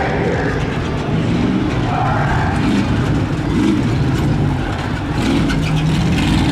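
Stock-class pickup truck engine revving hard, its pitch rising and falling as the throttle is worked.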